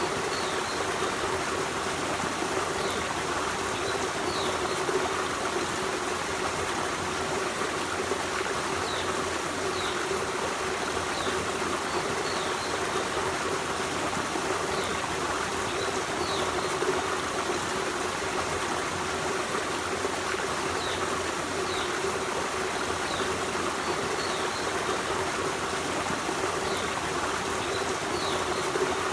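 Forest stream running steadily, a continuous rushing and babbling of water, with faint short high chirps every second or two.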